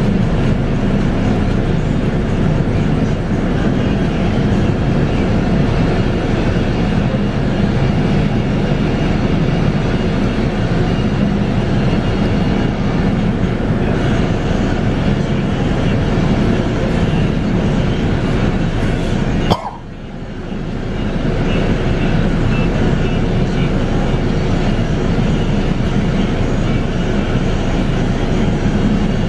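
A Scania K230UB city bus heard from inside while underway: its 8.9-litre five-cylinder Scania DC9 diesel runs steadily under road noise. About two-thirds of the way in there is a sharp click, after which the sound dips and builds back up over a couple of seconds.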